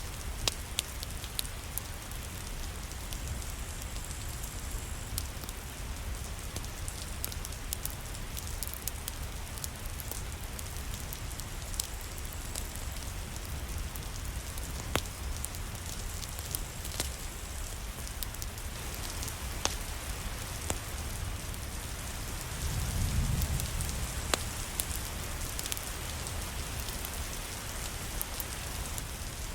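Steady rain with scattered sharp crackles, as from a wood fire in a fireplace. A brief low rumble swells late on.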